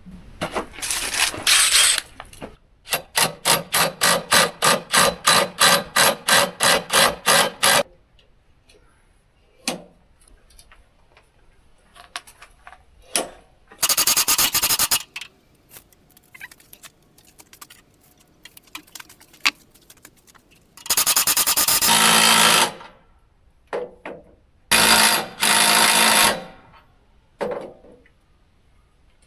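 Mechanical clicking and ratcheting in bursts: a run of about ten evenly spaced strokes, about two a second, early on, then several short bursts of rapid fine clicking with quiet gaps between.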